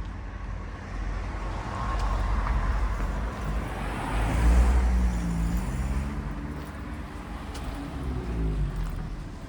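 A car passing by on the street, its engine and tyre noise swelling to a peak about halfway through and then fading away.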